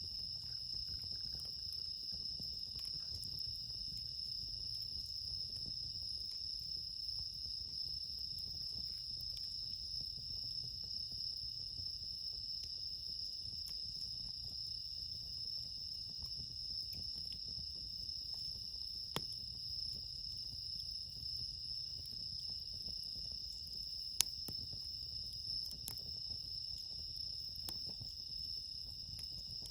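Steady night chorus of crickets, bell crickets among them, singing without a break. A campfire gives two sharp pops in the second half.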